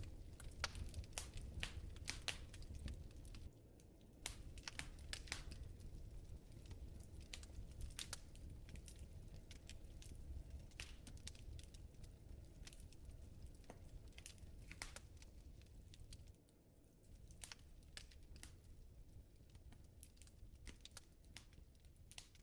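Wood fire in a fireplace crackling faintly, with irregular sharp pops and snaps over the low, soft rumble of the flames.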